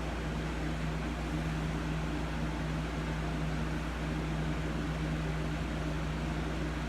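Steady low hum with an even hiss behind it, unchanging throughout: background room noise of a fan-like kind.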